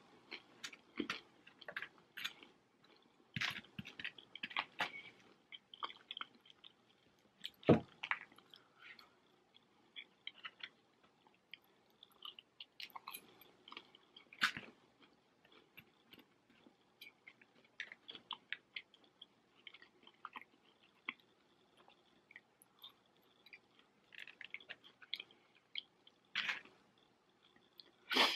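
Close-up chewing of salt and pepper chicken and chips, with wet mouth sounds and light crunching. Irregular sharp clicks run through it, the loudest about eight seconds in, as the fork works in the foam takeaway boxes.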